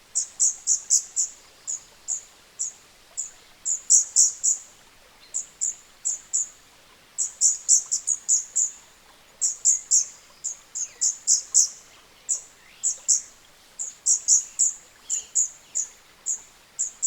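Scarlet-backed flowerpecker calling: short, sharp, very high notes in quick clusters of one to four, repeated every second or so, with brief pauses between runs.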